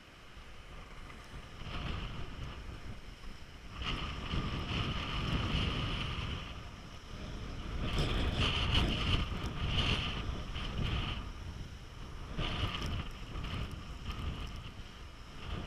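Wind gusting over the microphone, a low buffeting rumble that swells and eases several times, with a higher hiss during the strongest gusts.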